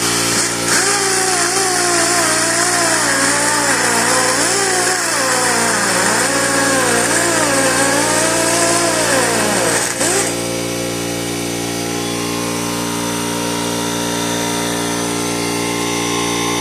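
Die grinder with a carbide burr bit cutting down a severely rusted bolt head. Its whine dips and recovers in pitch as it bogs under load. About ten seconds in the cutting hiss stops and the grinder runs on freely at a steady pitch.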